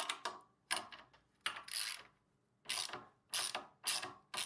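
Ratchet wrench being worked back and forth in short strokes, each stroke a quick run of clicks, about six strokes, tightening down a bolt.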